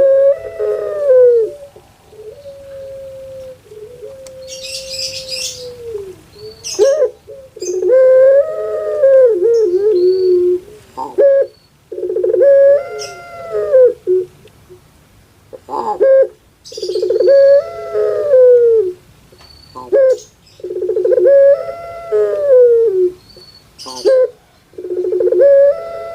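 Puter pelung (long-voiced Barbary dove) cooing over and over: each call is a loud, drawn-out coo that rises and then falls, about every four seconds, with one long, level held note early on.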